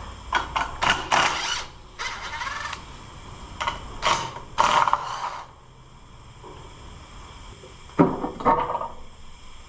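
Hand-tool work on the valve cover bolts of a gasoline engine: mechanical ratcheting and clinking in several short bursts with pauses between.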